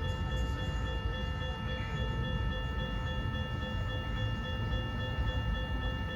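Freight train rolling through a grade crossing, a steady low rumble of the cars, with the crossing bell ringing steadily.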